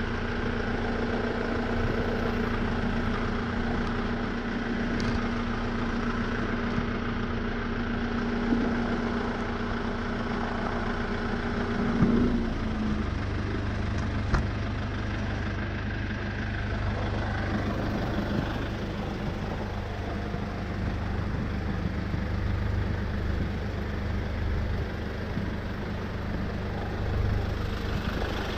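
Hyundai Porter light truck's engine idling steadily. A steady humming tone over the engine stops about twelve seconds in, leaving a deeper, lower running sound.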